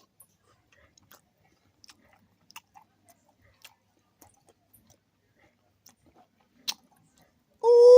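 A man chewing a mouthful of food, with faint scattered wet clicks and smacks of the mouth. Near the end he lets out a long, loud, drawn-out 'ooh' of pleasure.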